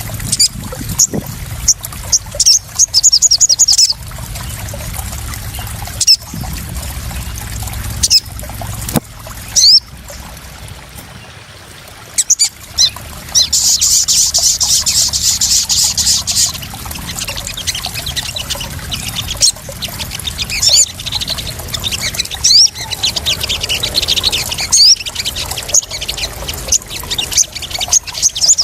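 Splashing, trickling water with a small bird calling over it: sharp rising chirps and quick high trills, repeated throughout, with a longer, louder trill a little past the middle.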